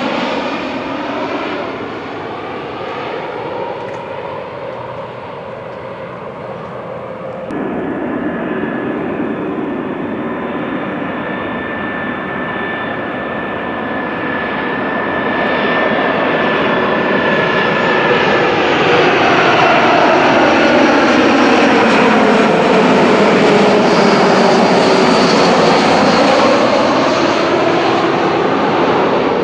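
Jet airliner engines passing close by, with a steady high whine that gives way to a falling, sweeping pitch as the aircraft goes past. The sound is loudest in the last third. The sound changes abruptly about a quarter of the way in.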